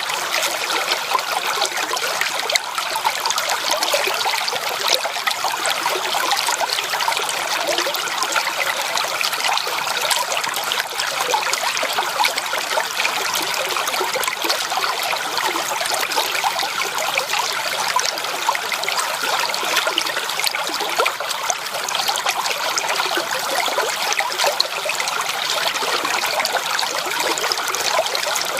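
Stream water flowing, a steady rush with fine trickling and splashing.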